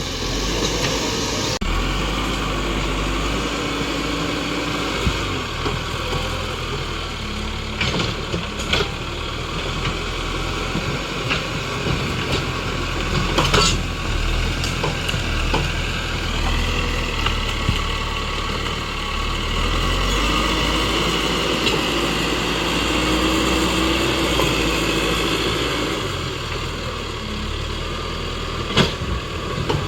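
Tractor engine running steadily, its pitch shifting now and then as it works, with a few sharp knocks on top.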